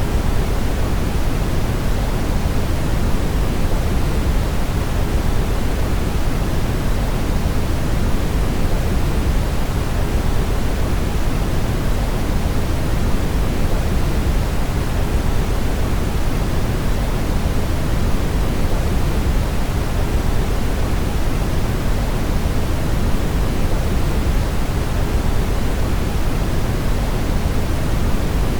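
Steady brown noise: an even, unchanging hiss-like rumble, strongest in the bass and falling off toward the treble.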